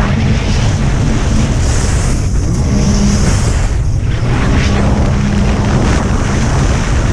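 Racing jet ski engine running hard at speed over a dense rush of water and wind noise, its steady note briefly fading a couple of times.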